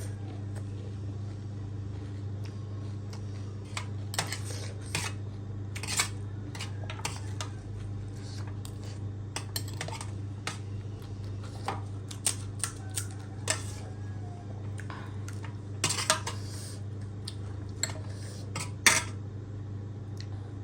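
Spoon clinking and scraping against a dish in irregular taps, over a steady low hum.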